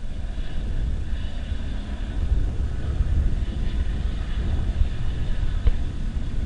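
Steady low rumble of a jet airliner's engines, heard at a distance.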